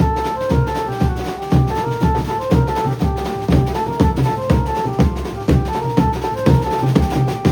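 Maharashtrian banjo band playing loud procession music: a short, repeating melody over a heavy, steady drum beat, with bass-drum strokes about twice a second and snare hits between them.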